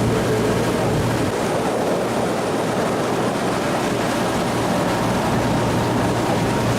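Tour boat's engine running steadily as the boat moves across the lake, a constant low hum under an even rushing noise.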